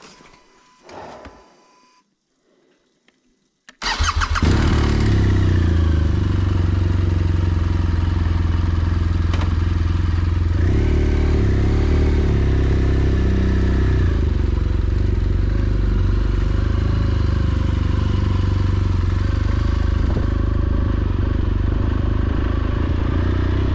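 BMW R1200GS Adventure's boxer-twin engine starting about four seconds in, after a near-silent pause, then idling steadily.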